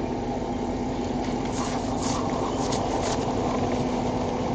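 Steady vehicle running noise inside a patrol car's cabin, with a constant low hum.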